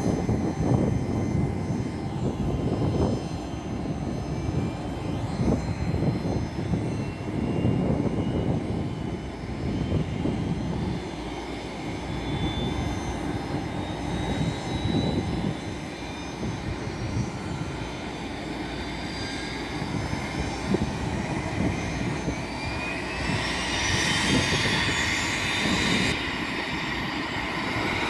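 Airbus A320 jet engines running, with an uneven low rumble under a thin whine that slowly rises in pitch. The whine grows brighter and louder near the end, then drops back.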